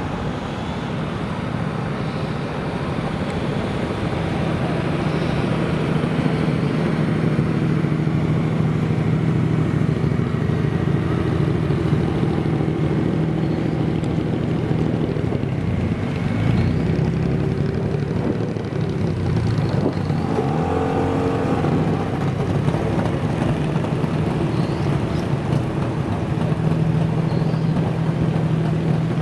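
Classic car engines running steadily, with engine revs rising and falling about two-thirds of the way through.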